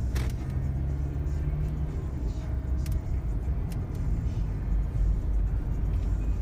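Inside a moving car: a steady low rumble of engine and road noise, with a few sharp clicks.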